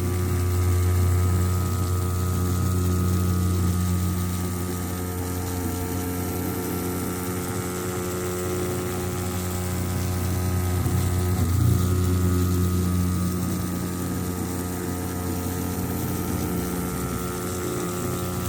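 Small electric motor of a toy running at a steady speed, a constant buzzing hum.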